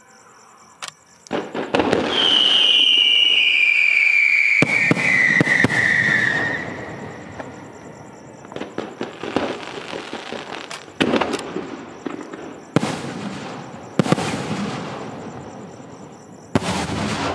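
Aerial fireworks shells bursting overhead in a series of sharp bangs with crackling between them, and a long whistle that falls in pitch a couple of seconds in.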